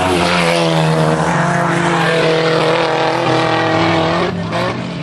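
Rally car engine running hard at high revs as the car passes on a gravel stage, its pitch climbing slowly. About four seconds in the engine note drops away sharply.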